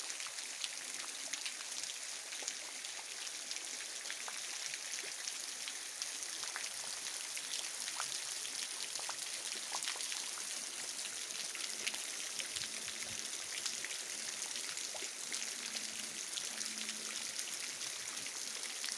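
Steady rain falling: an even hiss with many separate drops ticking as they land.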